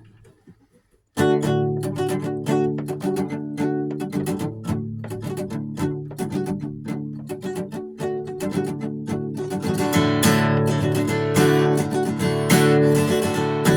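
Acoustic guitar strumming chords in a steady rhythm as a song's instrumental intro, starting about a second in. The playing grows fuller and brighter about ten seconds in.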